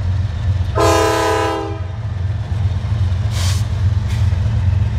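Diesel freight locomotive air horn giving one short blast of about a second, several notes sounding together as a chord, over a steady low rumble.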